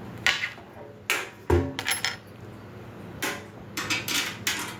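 Metal grill parts and loose bolts clinking and clattering as they are handled and tried during assembly: a string of sharp clinks and knocks, with one heavier thump about a second and a half in.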